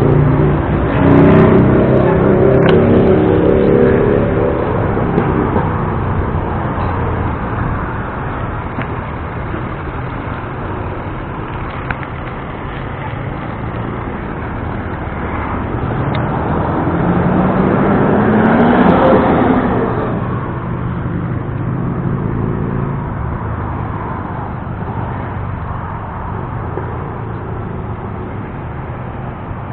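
Road traffic: a motor vehicle's engine running close by at the start, and another vehicle accelerating with a rising engine note about two-thirds of the way through, over a steady rush of road noise.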